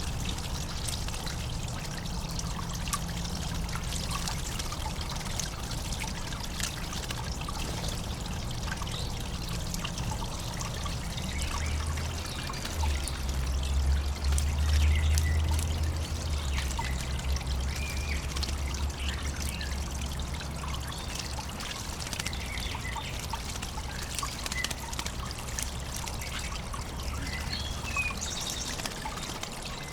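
Water trickling steadily in a backyard bird bath, with a few short bird chirps. A low rumble swells for several seconds around the middle.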